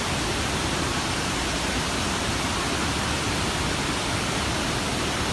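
Waterfall cascades rushing: a steady, dense wash of falling water.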